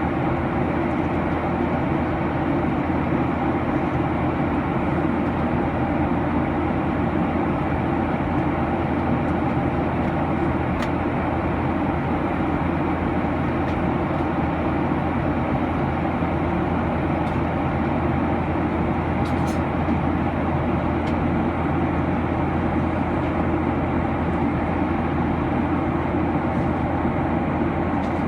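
Steady cabin noise inside a Boeing 737-900 airliner, heard from a front window seat: an even rumble and rush from the engines and the airflow, with no change in level.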